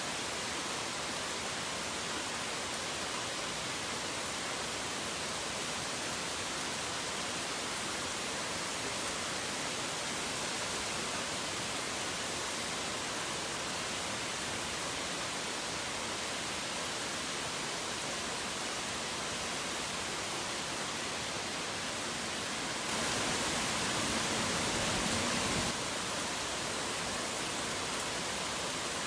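Steady, even hiss of falling rain with no separate drops standing out, briefly a little louder for about three seconds near the end.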